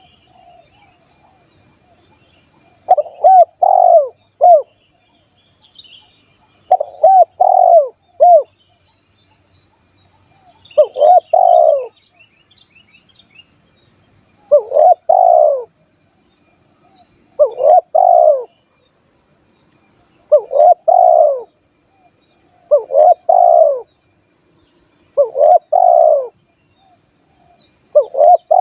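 Spotted dove cooing: a short phrase of two or three mellow coos repeated about every three seconds, nine times, the first about three seconds in.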